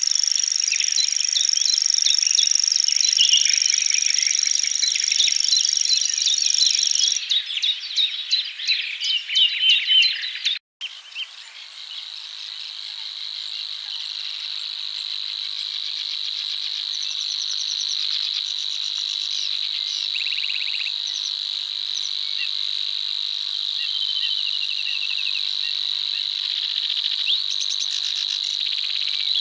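Insect chorus, a steady high trill, mixed with frog calls and short chirps. About ten seconds in it cuts off abruptly, and a steady, lower-pitched insect trill with occasional calls carries on.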